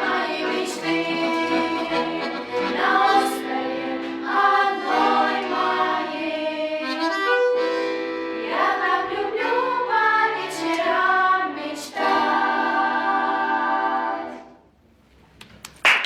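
Girls' vocal ensemble singing in harmony over instrumental accompaniment, holding a final chord that stops about fourteen and a half seconds in. After a short silence, applause begins at the very end.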